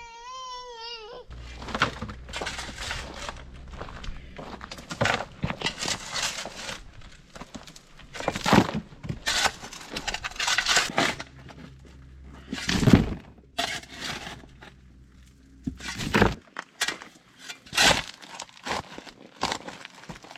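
A baby's short wavering cry, then a long run of irregular crunching knocks and scrapes over a low steady hum that stops abruptly near the end.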